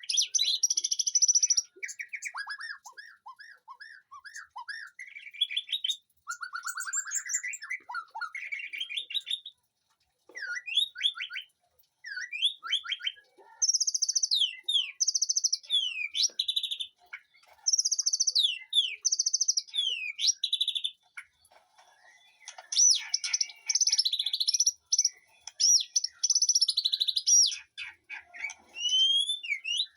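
White-rumped shama singing a varied song of clear whistled phrases, quick up-and-down slurs and rapid repeated notes, with brief pauses between phrases.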